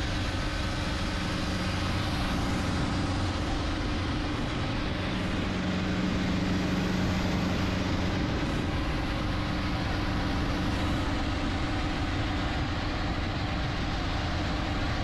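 Motorboat engine running at a steady speed under way: a constant low drone with an even rush over it.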